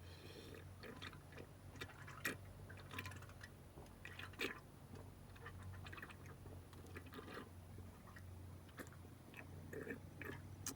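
Quiet eating sounds: irregular soft clicks and chewing, with two sharper clicks about two and four and a half seconds in, over a steady low hum.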